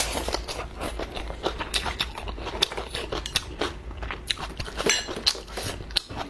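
A person eating close to the microphone: irregular crunching and crackly clicks of chewing and biting food.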